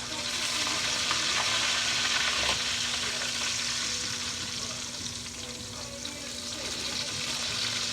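Chicken frying in hot oil: a steady crackling sizzle, a little louder in the first half.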